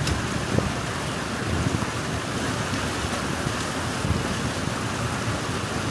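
Steady rush of water pouring through a cut in a packed beaver dam, with wind buffeting the microphone in low, uneven rumbles.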